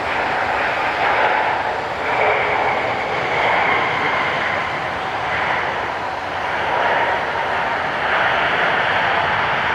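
Jet airliner engines, a loud steady roar with a faint whine that wavers slightly in pitch.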